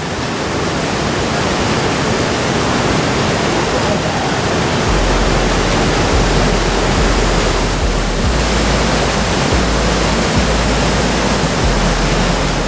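Moulton Falls on the East Fork of the Lewis River: a loud, steady rush of fast water pouring over the falls. A deep low rumble joins about a third of the way in and drops in and out.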